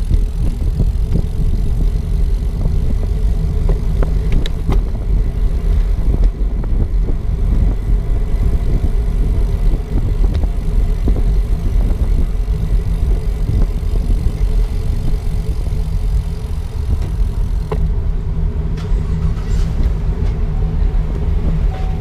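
Wind buffeting the microphone of a camera carried on a moving bicycle: a loud, steady, rumbling rush of low noise.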